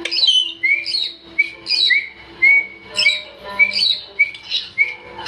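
A parrot making a quick series of short whistling chirps, about two a second, over background music.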